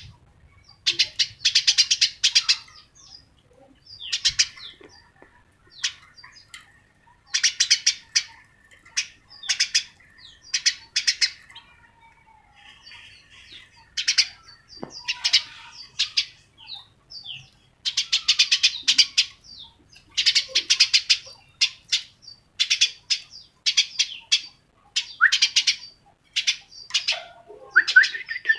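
A small bird chirping in rapid chattering bursts, each about half a second to a second long, repeated with short pauses between.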